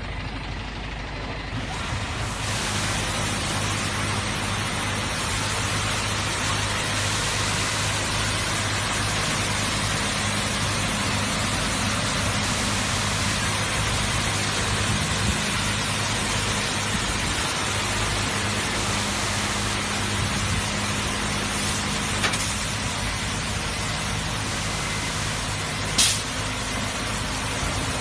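Rollover truck wash machine running: a steady hiss of high-pressure water spray over a low motor hum, the spray swelling in about two seconds in. A sharp click about two seconds before the end.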